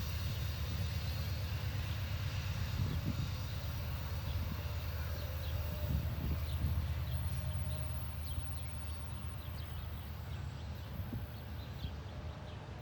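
Steady low rumble of an approaching train, with faint bird chirps above it.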